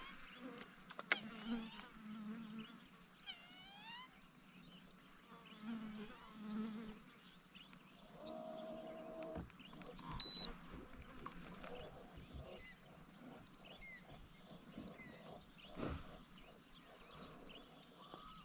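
Flies buzzing close around the microphone, one passing loudly about eight seconds in, over faint outdoor quiet. A few short, gliding calls and a couple of light knocks are scattered through it.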